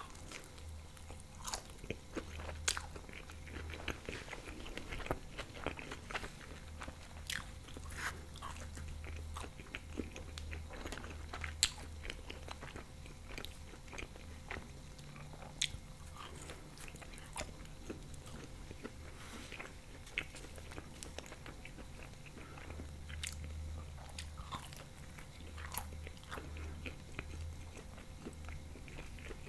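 Close-miked eating sounds of a person biting into and chewing thin-crust bechamel pizza: wet chewing with frequent irregular sharp crackles and clicks.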